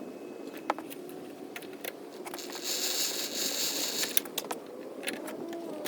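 Metal tools and parts clinking and knocking as they are handled, with a short hiss in the middle lasting about a second and a half.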